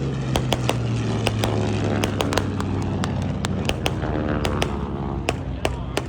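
Jet aircraft passing by, a steady jet noise whose tone sweeps as it goes over, with many sharp crackling clicks throughout.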